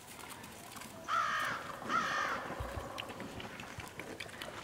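Two harsh bird calls, each about half a second long and about a second apart, over faint outdoor background.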